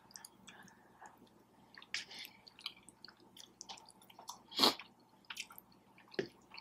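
Close-miked mouth sounds of someone chewing a mouthful of cheesy taco pasta: soft, wet squishes and clicks, with a louder smack about two thirds of the way through and another near the end.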